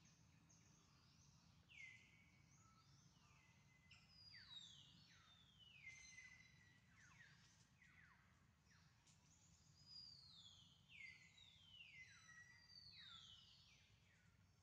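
Faint birdsong: many whistled notes, each sliding down in pitch, repeated and overlapping, over a low steady hum.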